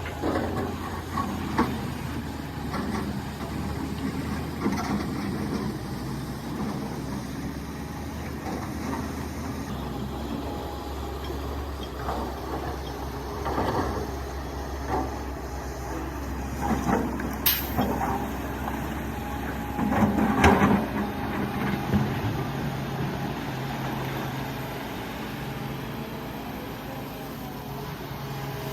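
Excavator's diesel engine running steadily under work, with intermittent clanks and scrapes from the bucket working rock, the loudest about twenty seconds in.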